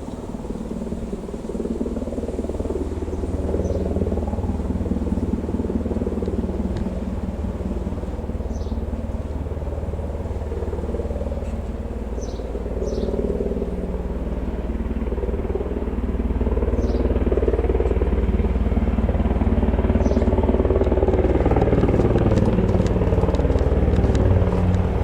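Sikorsky S-92A search-and-rescue helicopter approaching, its rotor and twin turbine engines making a steady drone that grows gradually louder.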